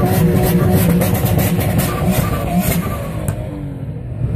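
Car engines running and revving in a car park, the engine pitch rising and falling as cars pull away. The sound eases off a little near the end.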